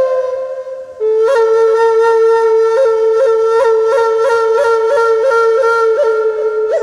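Black Natura Native American flute, a light dark-wood flute, playing. A note dies away in the first second, then a long low note is held with quick grace-note flicks above it repeating throughout, fading out near the end.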